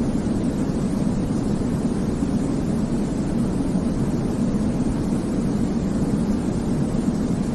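Steady sleep-aid noise, a deep, even rumble-like hiss with most of its weight in the low end and no change in level or pitch.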